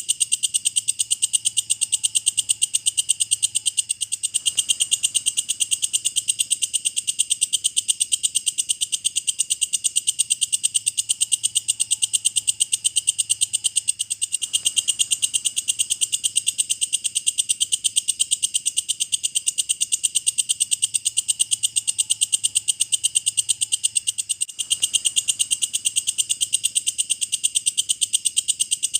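Walang kecek katydid calling without a break: a high-pitched, fast, even train of pulses.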